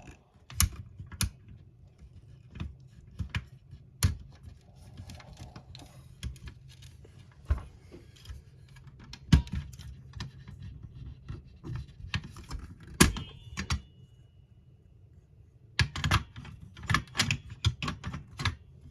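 Irregular clicks and taps of small model-kit parts being handled and pressed into place, with a quick run of clicks near the end.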